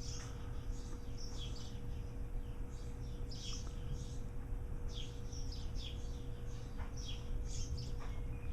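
Small birds chirping: short, high, downward-sliding chirps coming in loose clusters, over a low steady background rumble.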